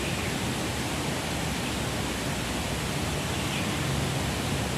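Steady rushing wind noise on the microphone in heavy wind.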